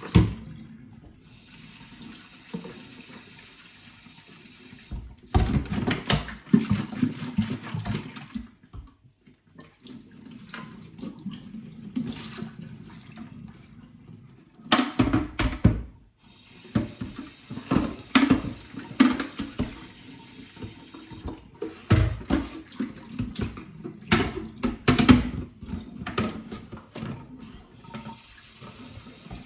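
Water swirling and sloshing around inside a plastic vacuum dust bin as it is rinsed out, in a string of uneven bursts with quieter lulls between.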